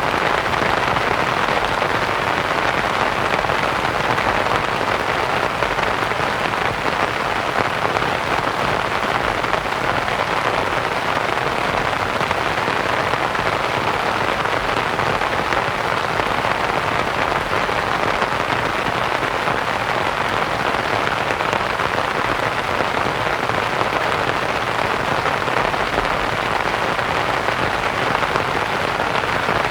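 Steady rain pattering on a canvas tent, blended with soft white noise, as an even, dense hiss.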